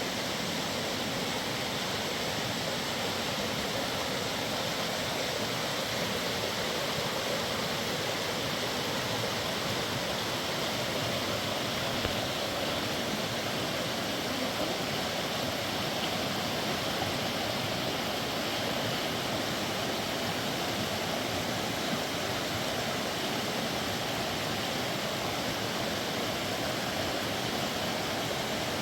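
River water rushing past, a steady and even sound of flowing water.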